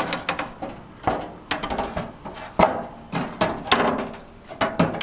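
Irregular knocks and clunks from work on a pickup truck door as the door glass is worked out, one sharp knock about two and a half seconds in the loudest.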